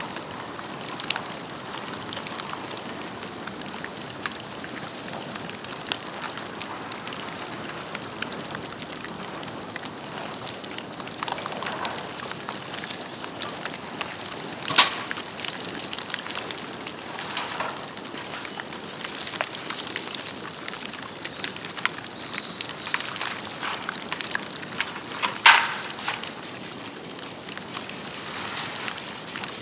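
Bamboo burning in a bonfire: steady crackling with many small snaps, and two loud sharp pops of bamboo bursting, about halfway through and near the end. A thin high whistle runs through the first half and stops just before the first pop.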